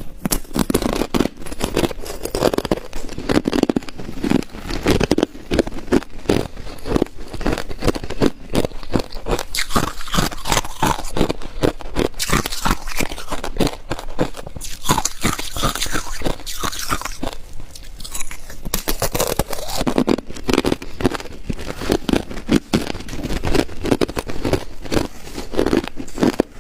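Ice being bitten and chewed close to the microphone: dense, rapid crunching and cracking of hard ice between the teeth.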